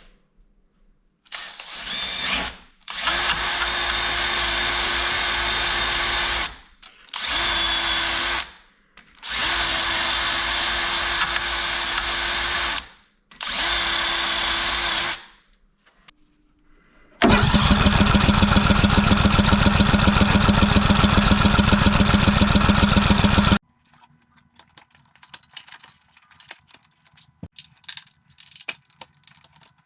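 A handheld power tool runs in four bursts of a few seconds each, its motor whining up and stopping. It then runs much louder for about six seconds with a rapid, even hammering and cuts off suddenly, followed by faint clicks of handling.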